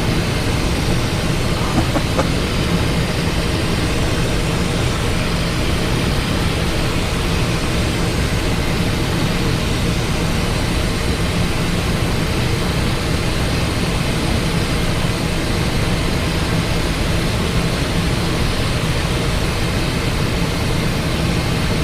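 Steady cockpit noise of a Cessna Citation XLS on final approach: the twin turbofan engines and the rush of air past the airframe, an even hum with a constant hiss over it.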